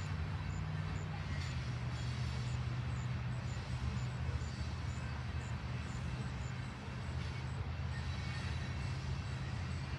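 Long train rolling past: a steady low rumble that holds even throughout.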